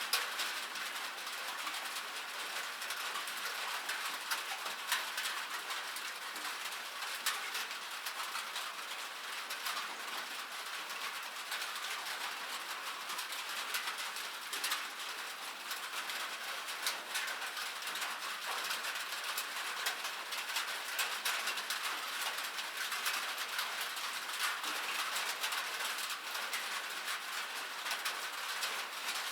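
Rain falling on a metal surface: a steady hiss of rain dotted with many sharp, irregular ticks of drops striking the metal.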